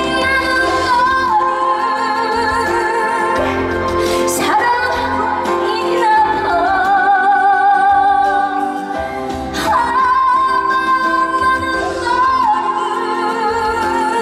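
A woman singing a trot song live over backing music, holding long notes with a wide vibrato in phrases a few seconds long.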